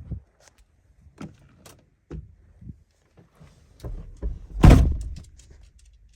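Vehicle door being handled: a few scattered clicks and knocks, then one loud thud about four and a half seconds in as the door is shut.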